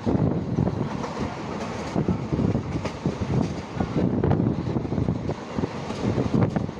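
Passenger train running along the track, its wheels clattering on the rails under a steady rushing noise.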